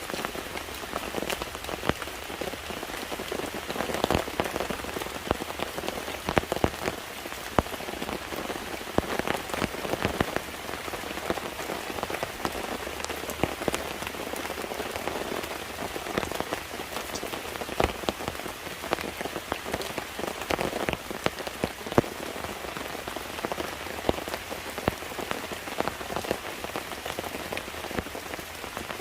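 Steady rain falling, with many sharp individual drop hits scattered through it.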